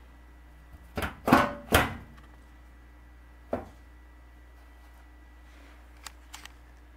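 Plastic filter access door on the lower front of a Kenmore HE-3 front-loading washer being fitted and snapped into place: a quick cluster of three loud clacks about a second in, a single knock at about three and a half seconds, and a few light clicks near the end.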